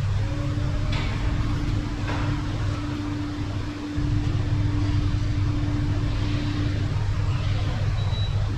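A machine's motor running with a steady low hum and a held tone above it, dipping briefly about halfway through, then running on.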